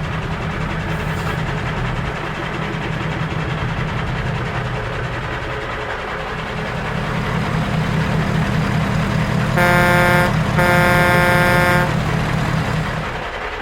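Pickup truck engine running with a steady low rumble, then a truck air horn sounds two blasts about ten seconds in, the second longer than the first.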